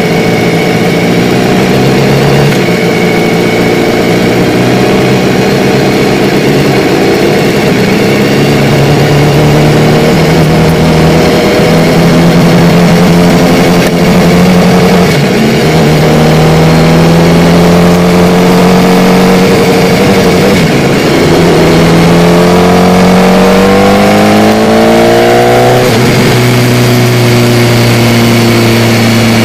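Sport motorcycle engine heard from the rider's seat, running at moderate revs over wind and road noise. Near the end its pitch climbs for a few seconds as the bike accelerates, then drops abruptly at a gear change.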